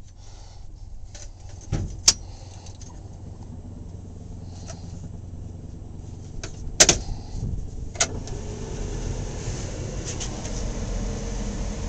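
A few sharp clicks and knocks as the power is connected, then about eight seconds in the military truck's heater blower motor starts and runs with a steady hum that builds and holds.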